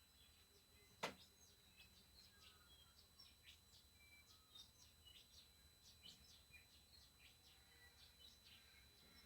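TriStar TS-MPPT-60 solar charge controller giving a faint, steady, high-pitched squeal, with birds chirping throughout. A single sharp click about a second in.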